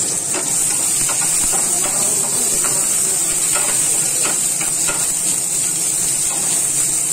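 Chopped tomato and cumin seeds sizzling in hot oil in a non-stick wok: a steady hiss with scattered small crackles.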